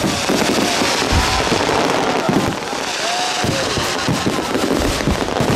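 Fireworks display: dense crackling with repeated low bangs and several short whistles that glide in pitch.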